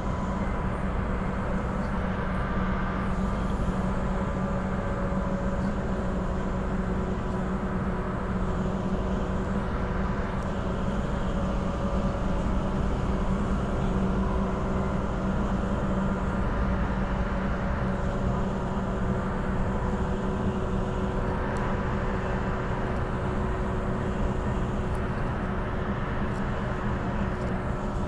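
Interior running noise of a Transperth B-series electric multiple unit cruising at steady speed: a steady rumble of wheels on rail with a constant electric hum from the traction equipment.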